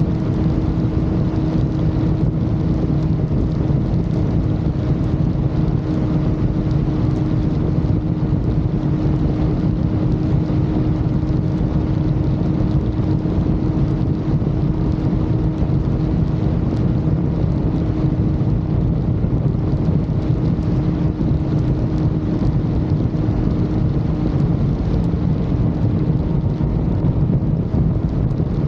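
Motorcycle cruising at highway speed, its engine holding a constant drone under steady wind and road rumble.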